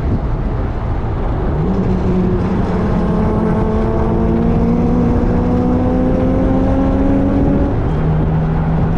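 Car engine heard from on board under heavy wind and road noise, pulling hard with its pitch rising steadily for about six seconds, then dropping sharply near the end as it shifts up a gear.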